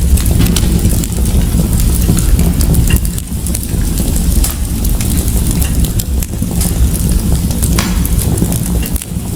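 Fire crackling in a fireplace: a steady low rumble of flame with frequent sharp pops and snaps, one louder pop near the end.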